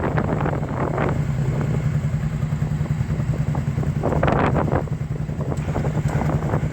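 Motorcycle engine running at a steady pitch, with two short rushes of noise, one near the start and one around four seconds in.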